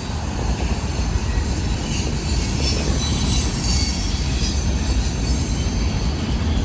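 Freight train cars rolling past in a steady rumble, with faint high wheel squeal over it.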